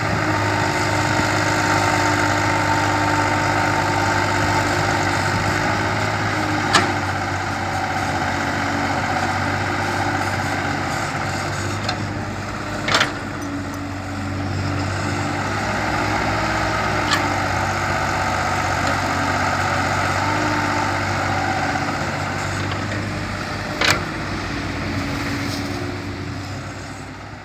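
Kobelco excavator working: the engine runs steadily and swells and eases under load in repeated cycles of several seconds, with four sharp knocks along the way.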